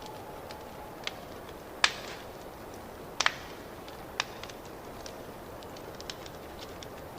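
Wood fire crackling in a fireplace: a steady low hiss with irregular sharp pops and snaps, the loudest about two seconds in and a quick double pop a little after three seconds.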